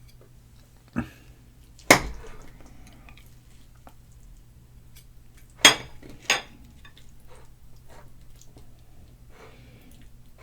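Cutlery clinking against a plate or bowl while food is served and eaten: four sharp clinks, the loudest about two seconds in, with softer taps between.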